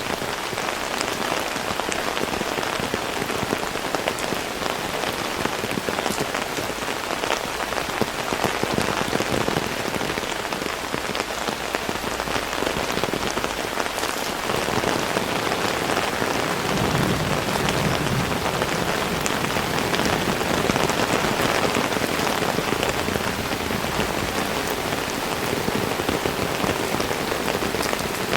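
Heavy rain falling steadily, a dense hiss dotted with the sharp ticks of single drops. About halfway through, a low rumble joins in and the rain grows slightly louder.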